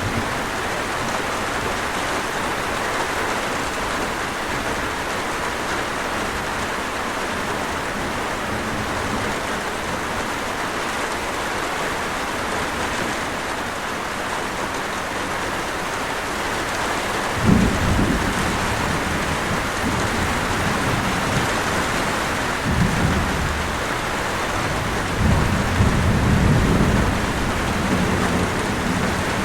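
Steady heavy rain falling, with low rolls of thunder: a sharp clap about halfway through, then rumbles a few seconds later and again near the end.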